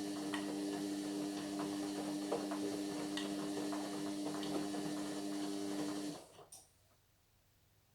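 Indesit MyTime washing machine running on its Whites 40 programme, with a steady motor hum and scattered light clicks. It stops abruptly about six seconds in, a single click follows, then the room is almost silent.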